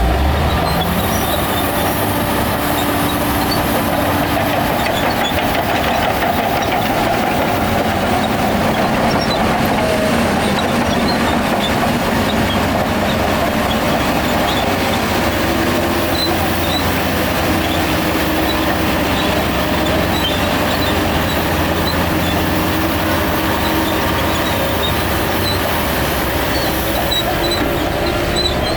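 Heavy diesel earthmoving machinery running steadily: a continuous loud engine noise with a few faint scattered clicks.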